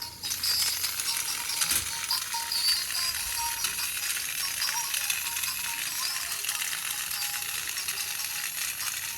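Rapid, fairly even rattling and clicking of small hard plastic and metal parts, the sound of an RC crocodile toy's pieces being handled during disassembly.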